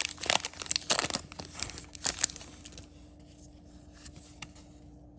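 Foil wrapper of a Pokémon booster pack being crinkled and torn open, dense crackling for about the first two seconds, then quieter handling with a few light clicks.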